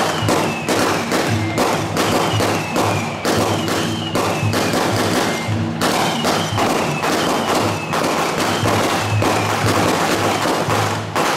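Loud procession music: fast, dense drum and cymbal strikes with a steady low beat, and a high tone over them that falls again and again in short glides.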